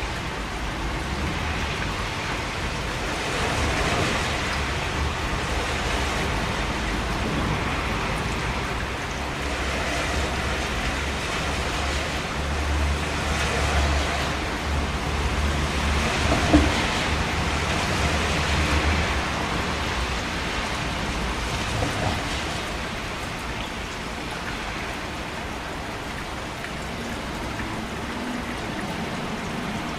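Steady rain falling, an even hiss of drops. A low rumble swells underneath through the middle, and there is one sharp tap about halfway through.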